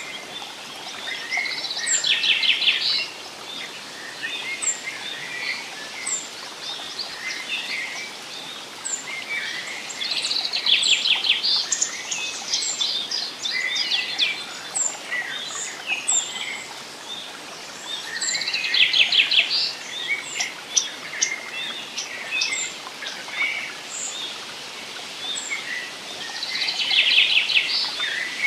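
Forest birds singing over a steady background hiss: one bird repeats a rapid trilled song phrase about every eight seconds, four times, while others give frequent short, high chirps.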